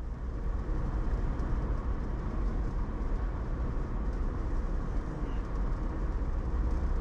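Steady rumble of a car's tyres and engine heard from inside the cabin while driving over freshly resurfaced road.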